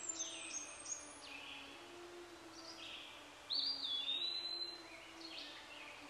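Wild songbirds calling outdoors: a scatter of short chirps and quick falling notes, and about three and a half seconds in one longer whistled note, rising and then held, that is the loudest sound.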